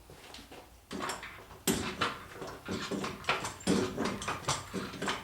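Irregular metal clanks and knocks, starting about a second in, from the chained engine and its lifting gear as it is worked free of the transmission.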